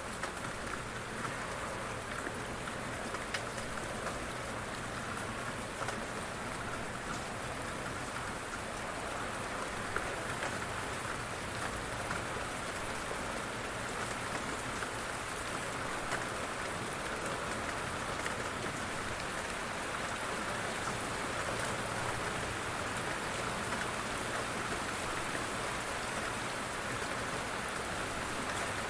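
Steady rain falling and pattering on a surface, with scattered faint drop ticks.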